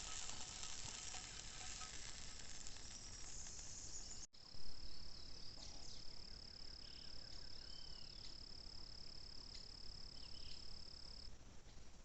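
Food sizzling in a pan for about four seconds, then after a sudden cut a single insect's steady high-pitched trill that stops about a second before the end, with a few short bird chirps over it.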